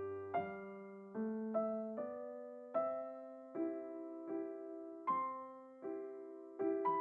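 Background solo piano music: a gentle, unhurried piece of single struck notes and chords, each fading out before the next.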